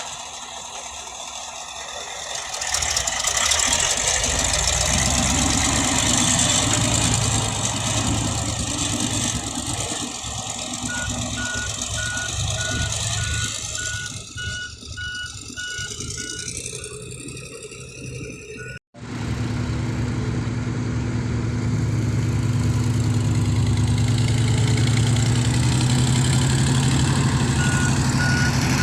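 Heavy diesel dump truck engine running, with a reversing alarm beeping in even pulses in the middle and again near the end. The sound cuts out for an instant about two-thirds of the way through, then a steady low engine hum carries on.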